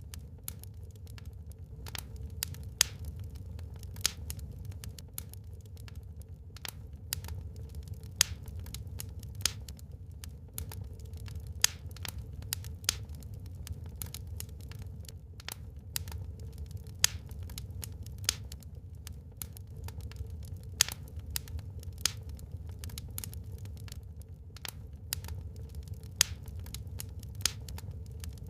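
Wood fire burning in a fireplace: a steady low rumble of flames with irregular crackles and sharp pops from the burning wood.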